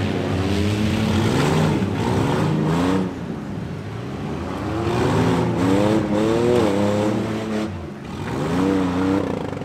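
Demolition-derby minivan engines revving hard. Their pitch climbs and falls several times as the vans drive around the pit.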